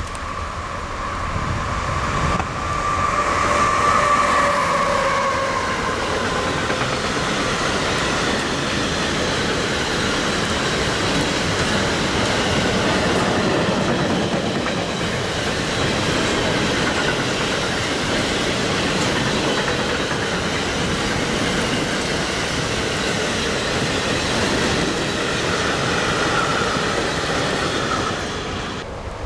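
Freight train of double-deck car-transporter wagons, hauled by an electric locomotive, passing at speed: a high whine in the first few seconds as the locomotive goes by, then a long steady run of wheels rumbling and clattering over the rail joints, with a brief high squeal near the end.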